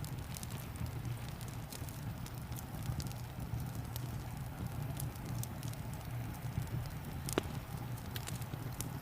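Wood fire crackling, with scattered sharp pops, the loudest one late on, over a steady low rumble and a soft, even hiss of rain.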